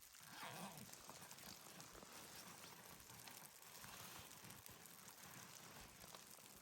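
Near silence: a faint steady hiss with a brief soft swell about half a second in and a few faint ticks.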